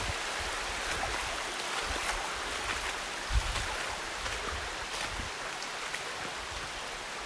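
Steady rush of a mountain stream flowing over rocks, with a few faint clicks and a brief low thump about three and a half seconds in.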